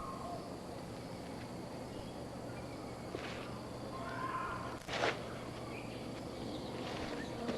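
Outdoor wildlife ambience: a steady natural background with a few faint bird calls and a single sharp snap or rustle about five seconds in.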